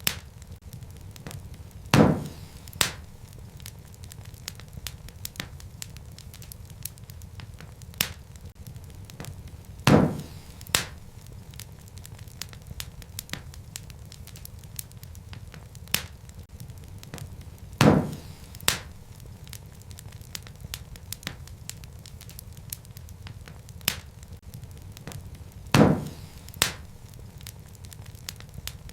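Wood fire crackling, with a steady low rumble of flames and many faint crackles. A loud pop of burning wood comes about every eight seconds, four times, each followed by a smaller pop under a second later.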